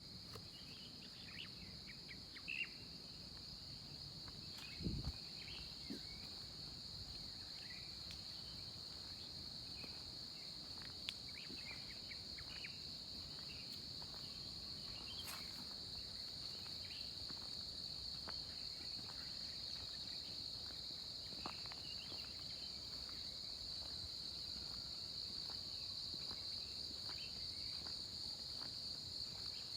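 Steady high-pitched drone of insects, crickets or cicadas, in tropical mountain forest, slowly growing louder, with scattered short bird chirps. A low thump about five seconds in.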